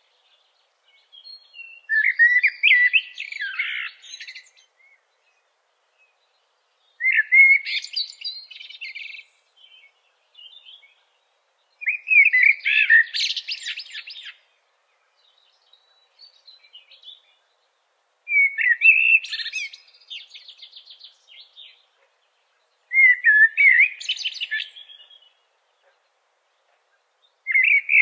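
A bird singing in separate song phrases of two to three seconds, six of them, one about every five seconds with quiet pauses between. Each phrase opens with lower gliding notes and runs into a higher twitter.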